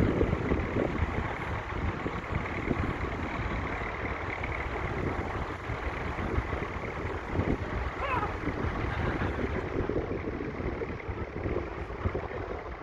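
1961 Massey Ferguson 65's 3.3-litre four-cylinder diesel engine running steadily while the tractor works a ploughing field.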